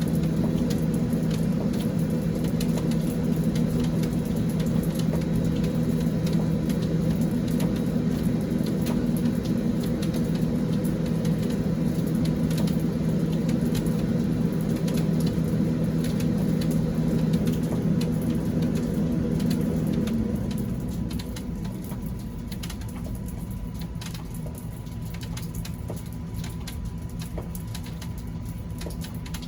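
Rain falling in a steady patter of drops, under a steady low motor hum that fades away about twenty seconds in, leaving the rain alone.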